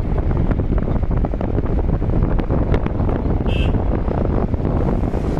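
Wind buffeting the microphone of a rider on the move, over the rumble of the vehicle. A brief high-pitched tone sounds about three and a half seconds in.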